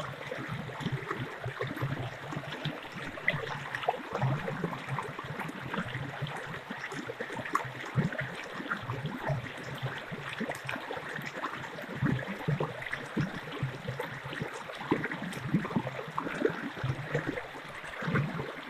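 A small stream running over stones, with a steady babble and many small irregular gurgles and splashes.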